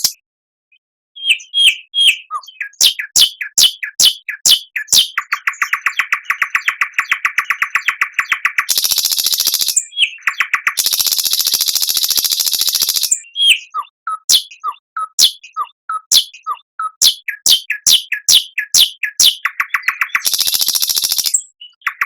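Recorded songbird song used as a training track for cage birds, starting about a second in. Series of sharp down-slurred notes, about two a second, alternate with long rapid buzzy trills and harsh rattling passages.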